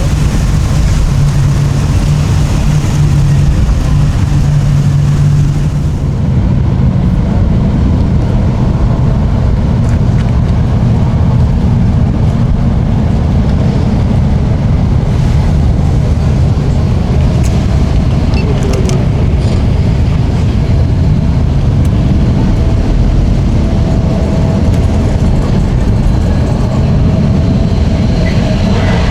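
Boat engines running at low speed, a steady low rumble with a constant engine hum.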